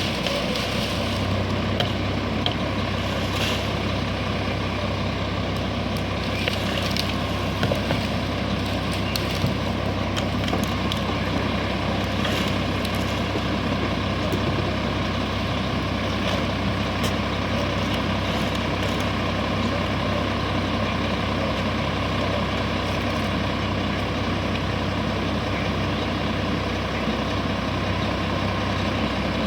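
Garbage truck engine running steadily at a constant speed, with a few faint clicks over it.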